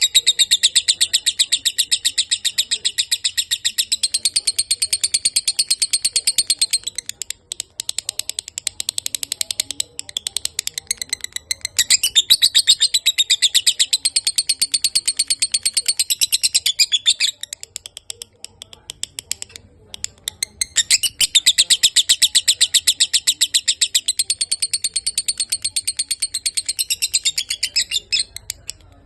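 Lovebird singing a long, fast chattering trill of rapid high notes. It keeps this up in long runs, with a brief break about a quarter of the way through and a longer pause a little past the middle.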